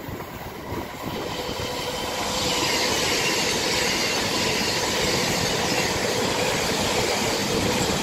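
CrossCountry diesel multiple unit running through the station at speed. The rush of wheel and air noise builds over the first two seconds and then holds steady, with a faint steady whine under it.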